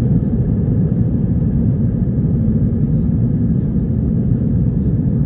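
Airliner cabin noise during the climb after takeoff: the Airbus A320's engines and airflow as a steady low rumble.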